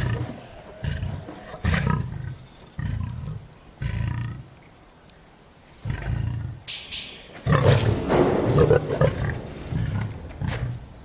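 Lion growling in a series of low, pulsed grunts, each about half a second to a second long. There is a short quiet pause a little before the middle, then a longer, louder run of growls.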